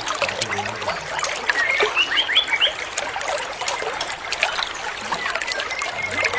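Water trickling and splashing steadily, with a bird giving a quick run of about five short rising whistled notes midway and a thin whistle near the end.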